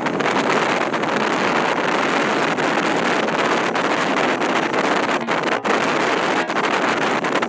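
Steady, dense rushing noise of aircraft engines running on a carrier flight deck, with wind buffeting the microphone.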